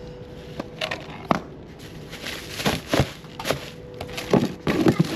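A series of irregular knocks, clunks and rustles as car parts are handled.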